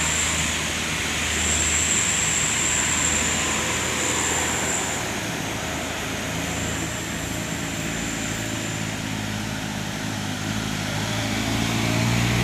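Road traffic passing: the rushing engine and tyre noise of heavy trucks on the road. A low engine drone swells near the end as another truck approaches. A thin high-pitched whine comes and goes.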